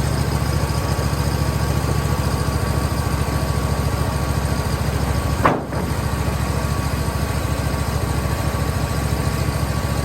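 Woodmizer LT15 sawmill's engine running steadily with an even low throb as a pine log is sawn into 2x6s, with a brief high squeal about five and a half seconds in.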